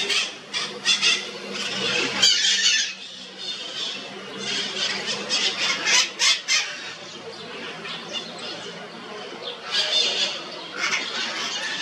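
Birds calling in repeated bursts of short, high, chattering notes, three times over, with a faint steady hum underneath.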